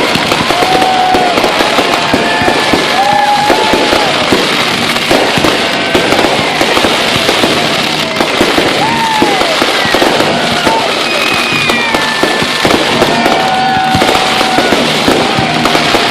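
Fireworks going off in a rapid, unbroken barrage of bangs and crackles, with held, wavering whistle-like tones sounding over it again and again.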